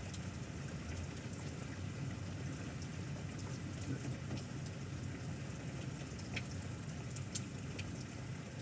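Steady rain falling, with scattered taps of individual drops over a low, even rush.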